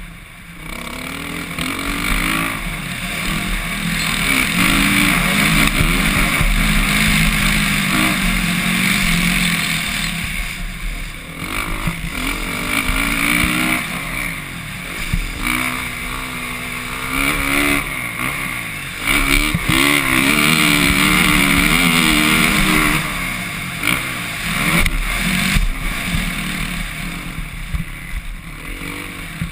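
Suzuki RM-Z450's four-stroke single-cylinder dirt bike engine being ridden hard, its pitch climbing and dropping again and again as the throttle opens and closes, with wind buffeting the microphone.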